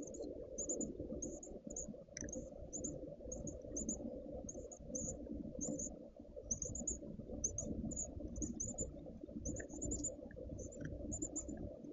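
Short, high-pitched animal chirps repeating two or three times a second, over a steady low rumble of background noise.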